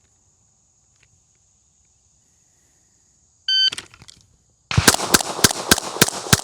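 A shot timer beeps once, and about a second later a pistol fires six rapid shots, roughly three a second, in a Bill drill. The echo of the last shot dies away.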